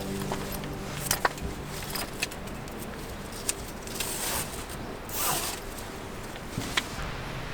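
Camp gear being handled: a few sharp clicks and knocks, with two short rasping swishes about four and five seconds in, like a zipper or fabric being drawn.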